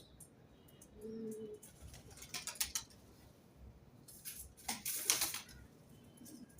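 Pigeons: one short low coo about a second in, then two bursts of wing flapping, the second one louder, with faint high chirps of small birds behind.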